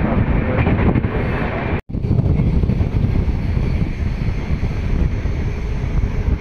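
Steady rumble and rush of a moving passenger train's wheels on the track, mixed with wind buffeting the microphone at an open door. The sound cuts out for a split second just under two seconds in.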